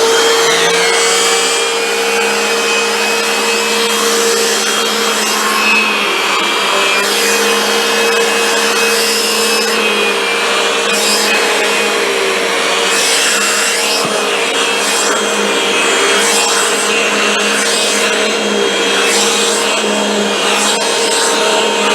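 Hoover WindTunnel 2 bagless upright vacuum cleaner running loudly and steadily, with a constant whine over a hum and rushing air.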